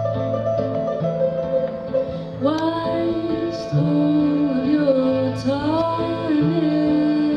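Band playing live: plucked string instruments over a steady bass line, with a voice starting to sing about two and a half seconds in.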